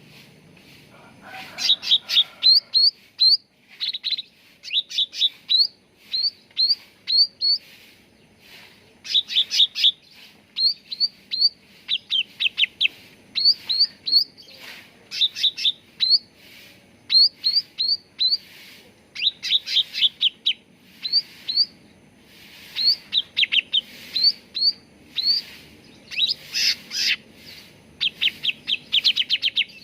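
Cucak ranting leafbird singing: quick runs of short, sharp chirping notes, each sliding in pitch, in clusters of three to six notes that repeat every second or so.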